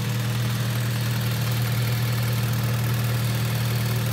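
1995 Honda Civic's engine idling steadily, an even low hum.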